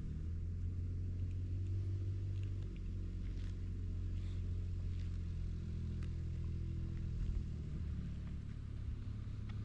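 A car engine running steadily at low revs, a low even hum with a slight shift in pitch about seven seconds in.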